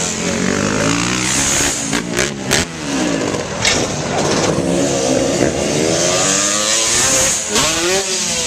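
Dirt bike engines revving, their pitch rising and falling repeatedly, with more than one engine note overlapping. A few sharp knocks about two seconds in.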